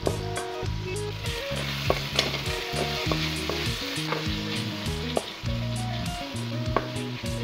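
Chopped tomatoes, onions and green chillies sizzling in hot oil in a metal pot while a wooden spatula stirs and scrapes them, with several sharp knocks of the spatula against the pot. Background music plays underneath.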